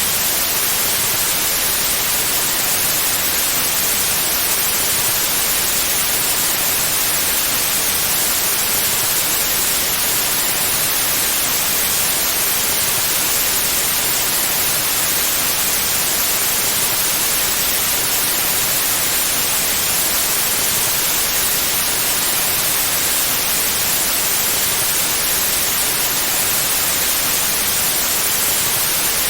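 Steady, unchanging white noise: an even hiss across the whole range, brightest in the highs.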